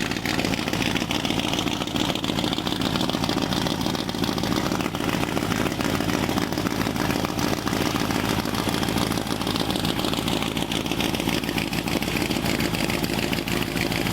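Small-block Chevy V8 with a Lunati Bootlegger cam, idling steadily through 2.5-inch dual Cherry Bomb glass-pack mufflers with turn-downs.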